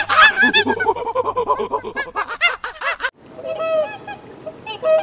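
A rapid run of loud, overlapping, honk-like animal calls, several a second, over a low steady hum. It cuts off abruptly about three seconds in, giving way to a quieter hiss with scattered short waterbird calls.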